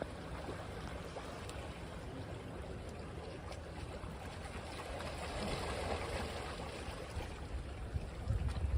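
Sea waves washing on a beach: a steady wash of surf that swells about five seconds in, with a low rumble near the end.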